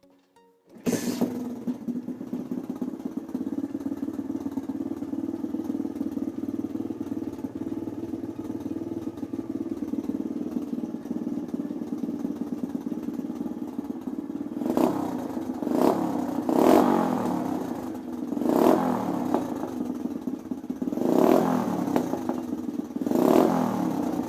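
Small motorcycle engine on a 2014 Orion AGB-37 pit bike, breathing through an aftermarket CNC smooth-tip exhaust, starts without choke about a second in and settles into a steady idle. From about two-thirds of the way through, six short throttle blips rev it up and back down to idle.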